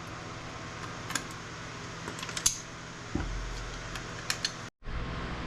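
Scattered small clicks and clinks as components are pried and snipped off circuit boards by hand, over a steady hum. The sound cuts out completely for a moment near the end.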